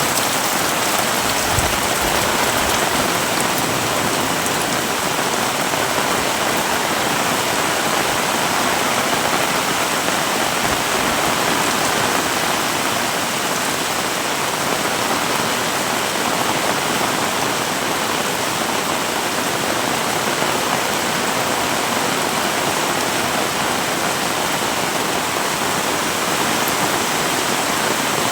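Heavy rain falling hard and steadily, a dense even hiss of rain on surfaces with running water.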